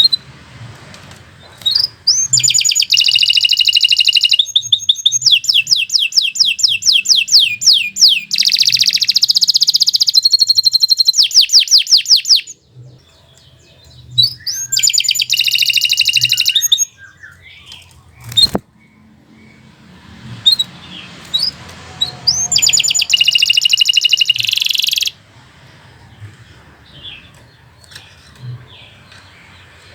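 Domestic canary singing long bouts of rapid, high trills and rolls, each a fast run of repeated notes. There are three bouts: a long one from about two seconds in to about twelve, then two shorter ones, with soft single chirps between them.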